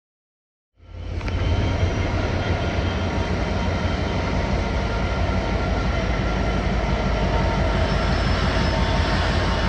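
A train running through a station, starting abruptly about a second in: a steady, loud low rumble with several thin whining tones held above it.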